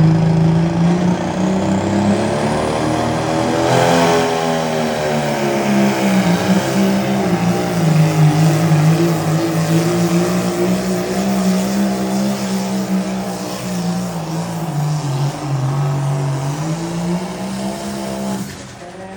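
A pulling tractor's engine is run hard under load while it drags the weight-transfer sled down the track. A high whistle rises over the first few seconds, and the engine note dips and swells through the pull, then falls away near the end.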